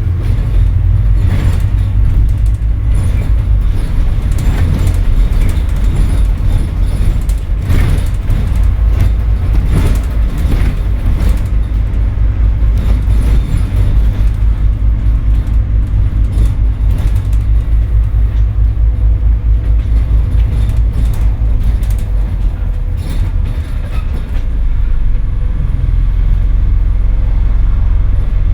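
Scania N230UD double-decker bus's five-cylinder diesel engine running under way, heard from on board: a heavy low drone with frequent rattles and knocks from the body, busiest in the first half. Near the end a faint steady whine comes in.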